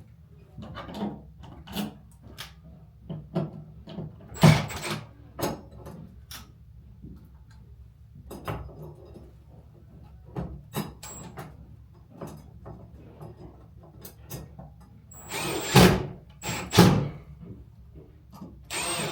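Scattered knocks, clicks and rattles of hand work on a ceiling light fixture and its metal mounting bracket. The loudest knock comes about four seconds in, and a burst of louder clatter comes near the end.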